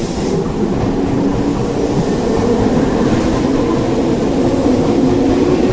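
Nankai electric commuter train moving along the platform, a steady running rumble and hum that grows slowly louder.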